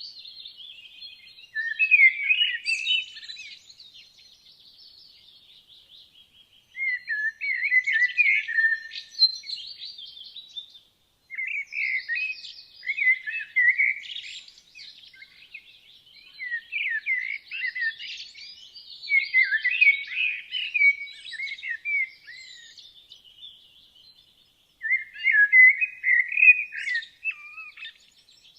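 Woodland birdsong: one nearer songbird sings about five loud, warbling phrases a few seconds apart, over fainter high twittering from other birds.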